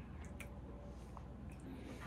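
Close-up chewing with the mouth closed: a few faint wet mouth clicks over a steady low hum.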